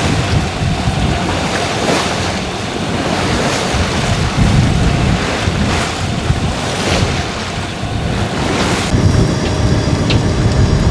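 Wind buffeting the microphone over the rush of waves at sea, swelling in repeated gusts. About nine seconds in, the upper hiss drops away.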